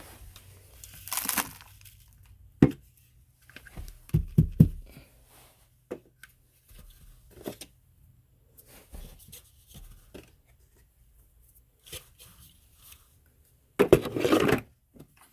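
Intermittent knocks, clunks and short scraping rustles from handling things. The two loudest are longer rustling bursts, about a second in and again near the end. No vacuum motor is running.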